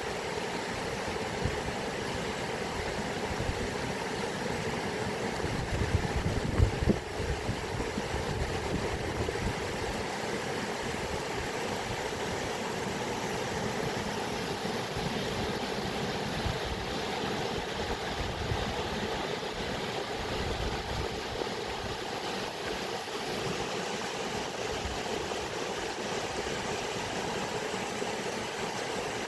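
Steady rushing of flowing water, even and continuous. About six seconds in there is a brief louder low rumble with a few knocks.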